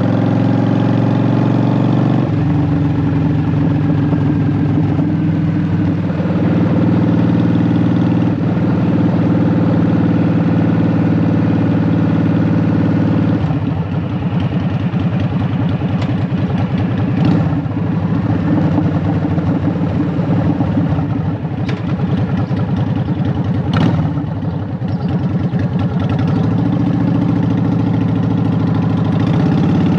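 Honda Shadow VT750's V-twin engine running through Vance & Hines Short Shot exhaust pipes, its engine speed changing in steps about two seconds in and again near the middle. A few brief clicks come in the second half.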